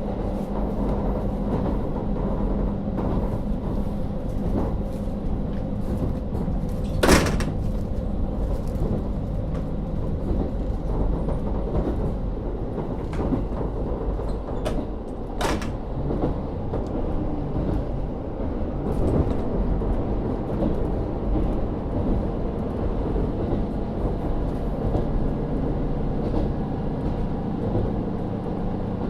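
KiHa 40 series diesel railcar under way, heard from inside the car: its N-DMF13HZB diesel engine drones steadily under the wheel and rail noise. A sharp knock comes about seven seconds in and another about halfway through.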